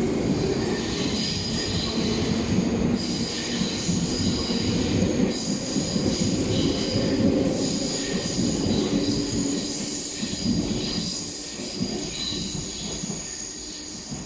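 Tobu Isesaki Line train moving along the platform, its wheels squealing in high, steady tones that come and go over a low rumble; the rumble fades over the last few seconds.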